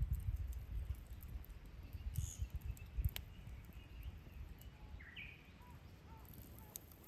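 A few short bird chirps, faint over a low, uneven rumble, with a couple of soft knocks; the clearest chirps come about five seconds in.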